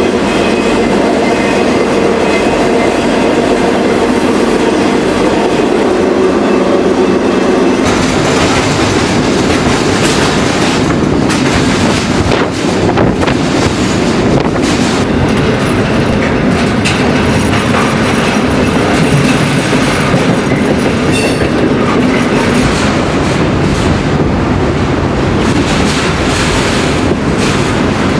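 Freight train rolling along, heard from aboard one of its cars: a steady loud rumble and rattle of wheels on rail. The low rumble fills out about eight seconds in, and after that short clicks of wheels over rail joints come through.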